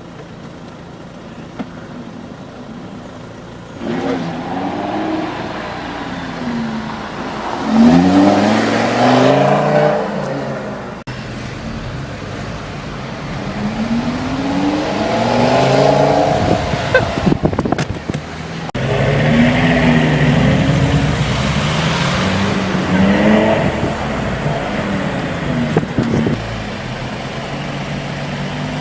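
Lamborghini Gallardo LP570-4 Performante's V10 accelerating hard in several bursts, the engine pitch climbing through each gear and dropping back at the upshifts.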